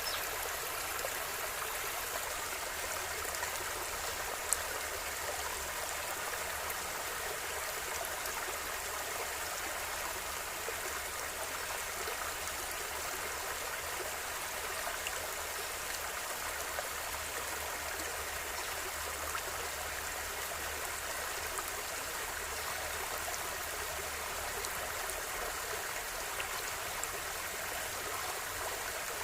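River water flowing steadily, an even rushing sound, with one brief tick about four and a half seconds in.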